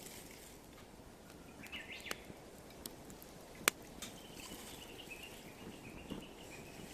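Wood fire burning in a small fire pit, with sparse crackles and one sharp pop about halfway through.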